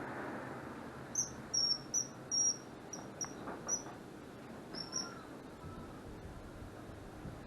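Common kingfisher giving a rapid series of short, shrill high-pitched calls, about eight in four seconds, starting about a second in.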